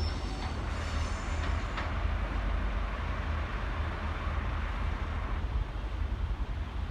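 High-speed diesel train (HST) wheels squealing and clicking over rail joints for about the first two seconds, then a steady low rumble and hiss as the train noise fades out.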